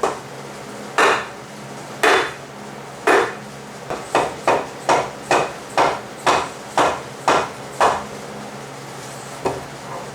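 Hammer blows on metal, driving the planer's shaft through to free it from its bearing housing. Three spaced strikes come first, then a quicker run of about nine at roughly two a second, and two lighter knocks near the end.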